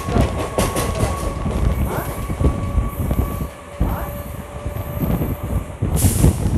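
Electric multiple-unit local train running at speed, heard from an open doorway: a steady rumble with rapid clicking of wheels over rail joints, and thin whining tones for several seconds. A brief loud rush of wind on the microphone comes near the end.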